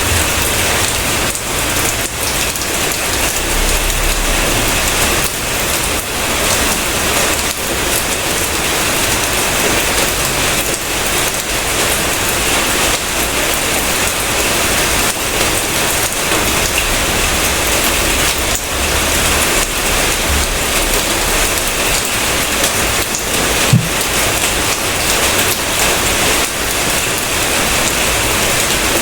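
Steady, heavy rain falling and pattering on surfaces, an even dense hiss with no letup. One brief, louder tap stands out near the end.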